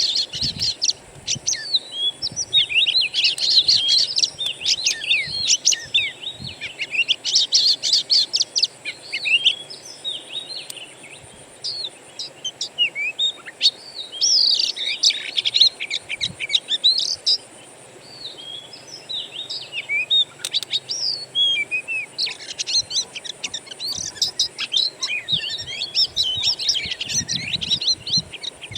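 Wild songbirds singing in dense bursts of rapid, varied whistled and chattering phrases, over a faint steady high-pitched tone.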